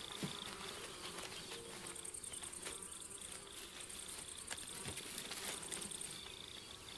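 Night insects chirring: a steady pulsing trill of crickets, joined from about two seconds in until about six seconds by a second, higher, finer trill. A few faint ticks or rustles sound among them.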